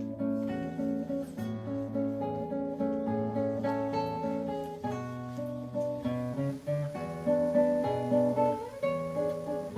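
Acoustic guitar playing a picked, gently strummed passage over a repeating bass line.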